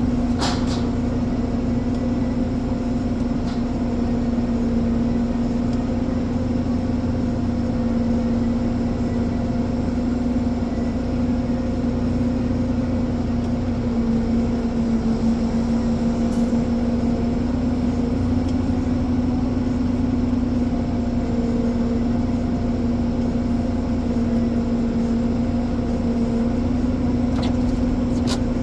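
Diesel engine of a Ponsse Elephant forwarder running steadily with an even hum. Brief clicks sound about half a second in and again near the end.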